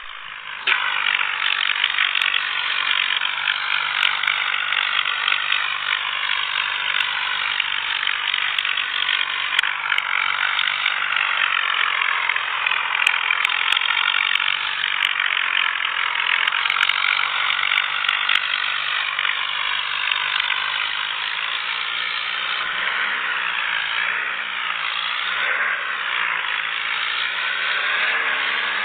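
A tractor-driven thresher running at work: a loud, steady mechanical whir and rattle, with the tractor engine running underneath. It starts about half a second in.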